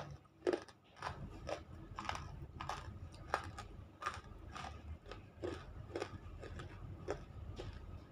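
Close-up chewing of half-roasted edible clay (nakumatt), with short wet crunches and mouth clicks about twice a second. The clay has gone creamy and sticks around the mouth as it is chewed.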